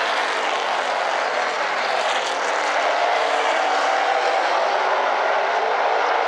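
Super late model race cars' V8 engines running hard as the field laps a short oval track, a dense, steady drone with a faint engine pitch that wavers slightly.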